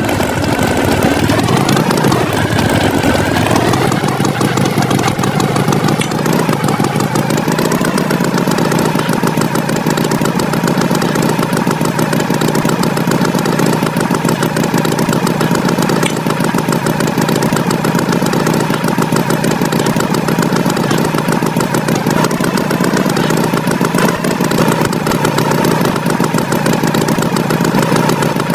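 A vehicle engine running steadily: its pitch climbs over the first several seconds, then holds level.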